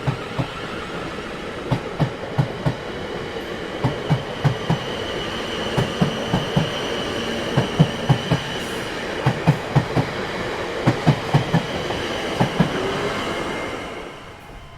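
Train wheels rolling over rail joints: a steady rumble broken by clickety-clack knocks in quick pairs and threes as the bogies pass, with a thin high wheel squeal through the middle. It fades away near the end.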